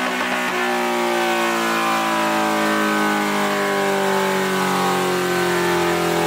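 Superbike engine on a dynamometer in a full-throttle pull, its pitch climbing slowly and steadily as it revs up through one gear.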